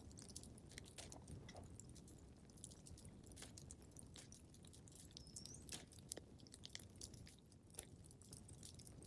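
Wood fire crackling faintly in a fireplace: irregular small pops and snaps over a low, steady rumble.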